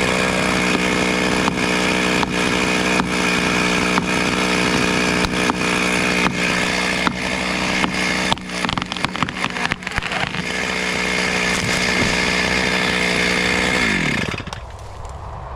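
Chainsaw running at high revs, with sharp ticks through the steady engine note and a rough, uneven stretch around the middle; about a second before the end the revs fall away.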